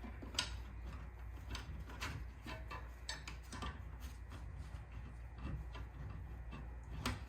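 Scattered light clicks and taps of metal parts being handled as the garage door opener's carriage and arm are fitted back together.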